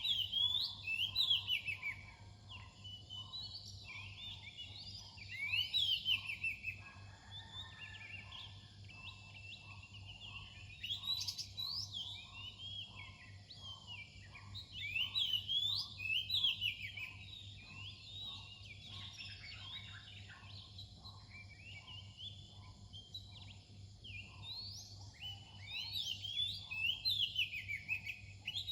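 Oriental magpie-robin singing its pre-dawn song: a continuous run of varied, sweeping whistled phrases, swelling into louder bouts several times.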